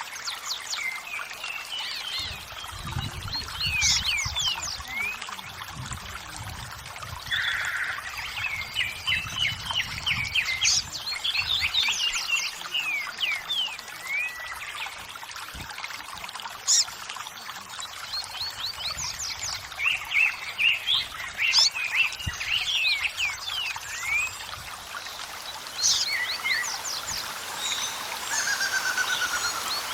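Many songbirds chirping and singing over steadily running, trickling water.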